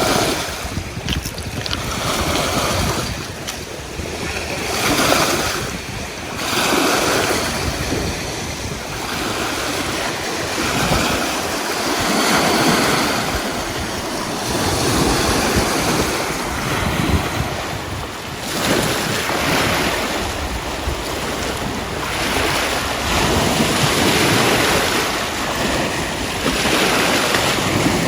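Waves washing in, the rushing noise swelling and fading every couple of seconds, with wind on the microphone.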